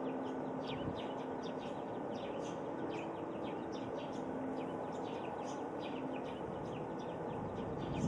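Small birds chirping repeatedly, short quick downward calls, over a steady rush of wind. The last tones of an outdoor loudspeaker chime die away in the first second.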